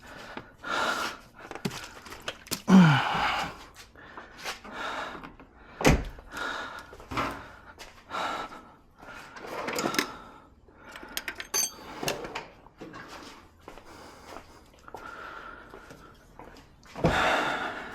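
Hands working at interior plastic trim and wiring connectors: scattered clicks and rustles, with a single sharp knock about six seconds in. A man's heavy breaths and a short grunt are heard along with it.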